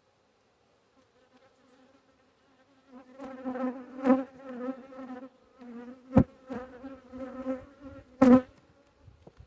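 Honeybees buzzing close to the microphone, a pitched hum that comes in about three seconds in and rises and falls as they fly past. Three sharp knocks cut across it, the last two the loudest.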